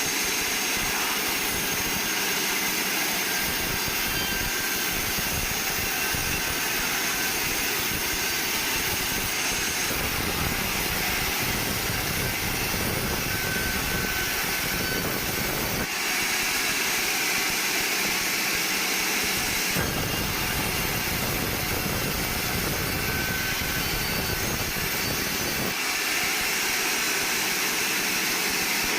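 Band sawmill running, a loud steady machine noise with a strong high hiss as the blade works through pine. The sound shifts abruptly several times.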